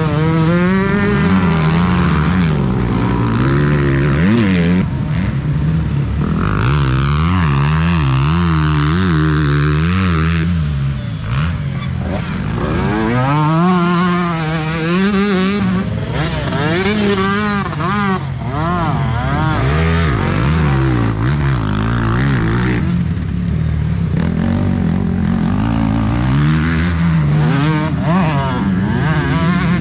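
Several motocross bikes racing on the track, engines revving up and down in pitch over and over as they accelerate and shift, with more than one engine heard at once.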